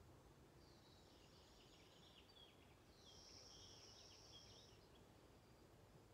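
Faint distant birdsong: two high-pitched trilling phrases of quick falling notes, the first about half a second in and the second about three seconds in, over a low steady background hum.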